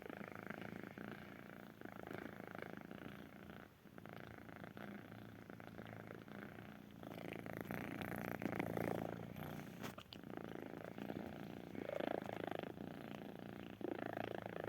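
Kitten purring continuously, in slow swells that grow louder about halfway through and again near the end.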